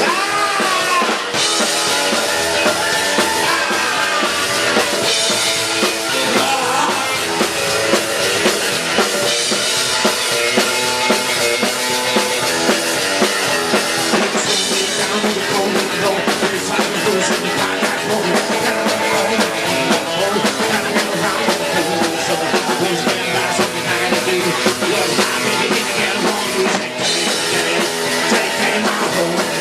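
Live rock and roll band playing an instrumental break: drum kit keeping a steady beat under a lead instrument bending its notes.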